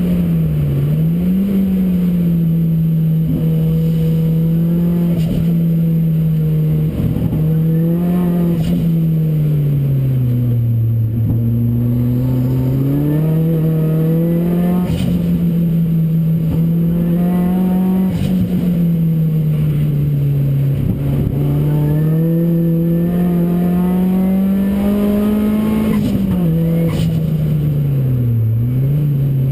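Ford Racing Puma's modified Focus RS engine, heard from inside the car, running hard on track. The engine note climbs and drops repeatedly as it accelerates and slows, with several sharp dips.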